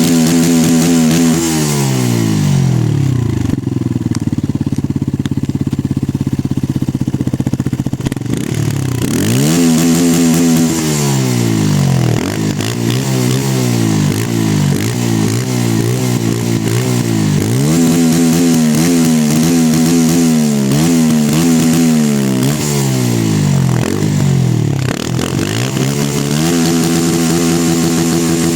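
Benelli 125S motorcycle engine with its stock exhaust being revved hard at a standstill. The revs repeatedly climb, hold high and fall back to idle, with a run of short blips in the middle.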